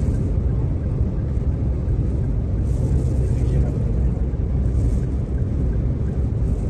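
Steady low rumble of a car driving, with road and wind noise from the sandstorm.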